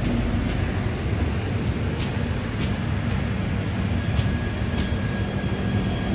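LHB passenger coaches rolling past on the rails: a steady rumble of wheels on track with scattered sharp clicks. A faint thin high squeal comes in from about four seconds in.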